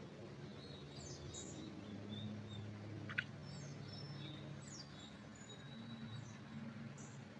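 Forest birds chirping and calling faintly in short, scattered high notes, with one sharp click about three seconds in, over a low steady hum.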